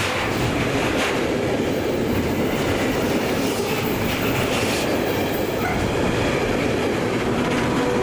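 A train passing close by, its wheels rolling over the rails with a steady, loud rumble and clatter.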